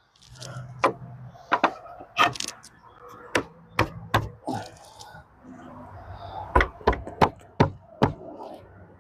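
About a dozen irregular wooden knocks and clunks as a gate brace board is handled and fitted into the gate frame, over a faint steady low hum.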